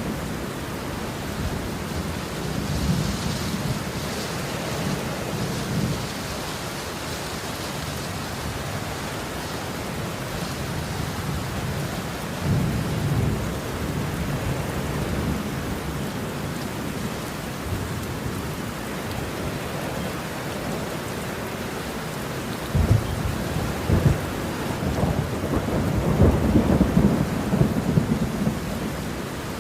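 Steady rain falling with thunder rolling several times, including a sudden low crack about two-thirds through and a longer, louder rumble near the end.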